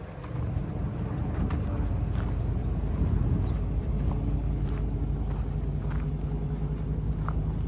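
2009 Ford E-450 truck's engine idling steadily, with a few light clicks over it.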